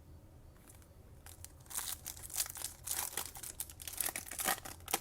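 A Topps Chrome card pack's wrapper being torn open and crinkled in the hands. It is a quick run of crackles that starts about a second and a half in.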